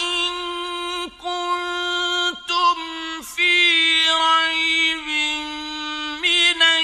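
A male Qur'an reciter chanting in the melodic mujawwad style. He holds long, steady sustained notes with wavering ornaments and brief breaths between phrases.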